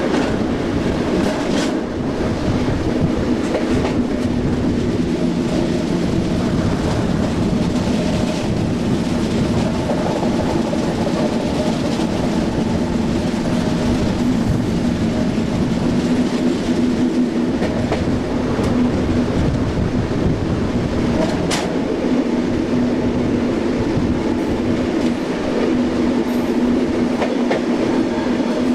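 SNCB AM80 electric multiple unit running steadily, its traction motors giving a constant hum with a few steady tones over the rolling rumble of the wheels, with occasional clicks from the rails.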